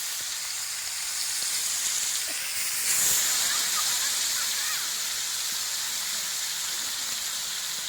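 Fish pieces frying in oil on a hot iron dosa griddle, a steady sizzle that surges louder about three seconds in.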